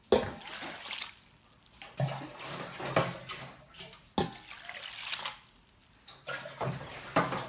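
Water splashing and sloshing in a basin as muddy crown daisy greens are swished and rinsed by hand, in about six separate bursts.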